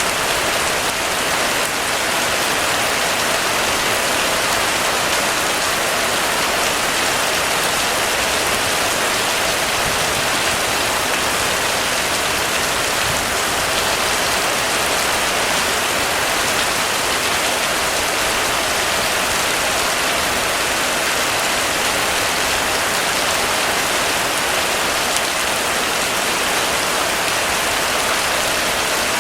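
Heavy rain falling steadily on a surface, an even hiss with no let-up.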